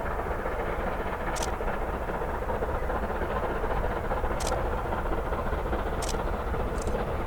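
Steam train running on the line, a steady even noise with a few sharp clicks at irregular times.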